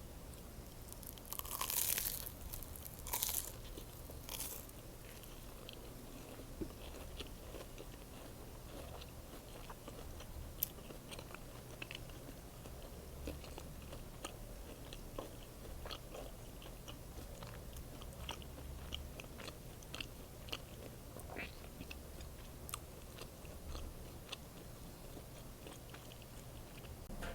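Close-up eating of an egg sandwich: about three loud crunchy bites near the start, then steady chewing with small wet clicks over a low hum.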